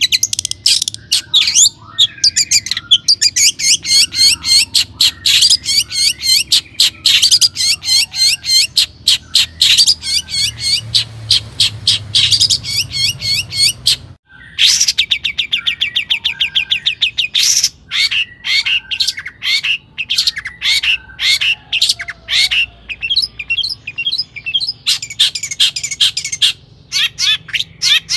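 Long-tailed shrike (cendet) singing continuously: a loud, rapid stream of high chattering notes and varied phrases, breaking off briefly about halfway.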